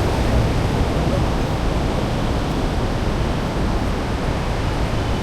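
Steady rushing noise of sea surf breaking on the beach, mixed with wind.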